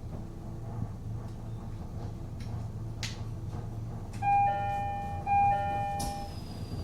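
Steady low rumble inside a Japanese train carriage, with a click about three seconds in. A two-note electronic chime then sounds twice, followed by a sharp click and a thin, slightly falling high tone near the end.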